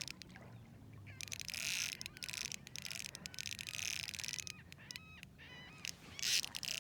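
Birds calling in short chirps a few times, clearest just past the middle, over a faint, fizzy hiss.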